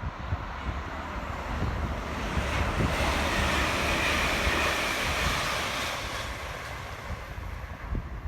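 A train passing through at speed: a rush of air and wheel rumble that swells, peaks midway, then fades away, with wind buffeting the microphone.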